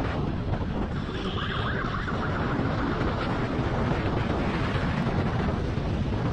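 Wind rushing over the microphone of a camera riding on a moving motorcycle at speed, with the motorcycle running underneath, steady throughout.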